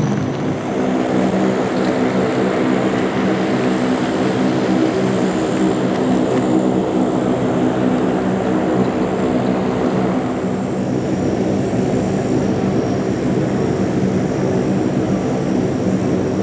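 Aircraft engines running steadily, a constant low droning hum with a faint high whine above it.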